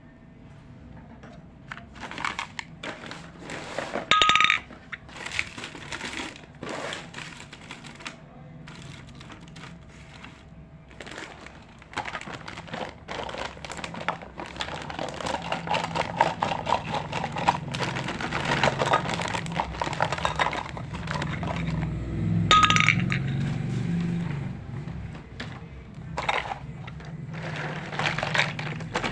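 Tiny toy kitchen pieces being handled and set down, making many light clicks and clinks. There are two short ringing dings, one about four seconds in and one about three-quarters of the way through.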